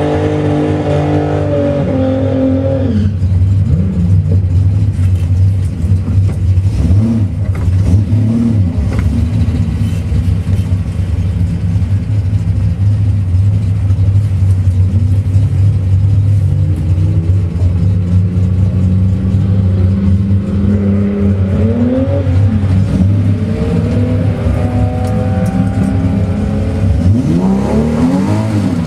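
Holden Torana XU-1's straight-six engine heard from inside the cabin, held at raised revs for the first few seconds, then dropping to a steady idle. The pitch rises and falls now and then, and the revs climb again near the end.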